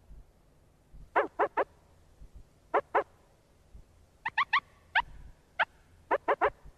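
A bird calling in short, harsh repeated notes, in quick groups of two to four with pauses between.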